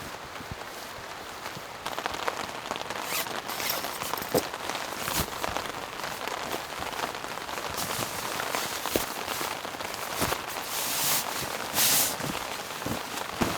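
Rain falling steadily, with scattered sharp drops and knocks throughout. It grows a little louder about two seconds in, and a couple of louder short hissing bursts come near the end.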